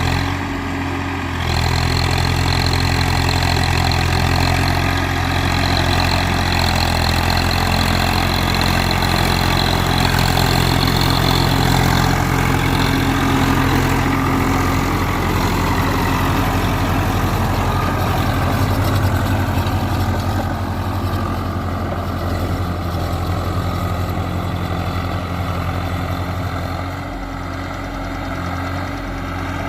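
Swaraj 744 FE tractor's diesel engine running steadily while driving a rotavator; it grows louder about a second and a half in and eases slightly near the end.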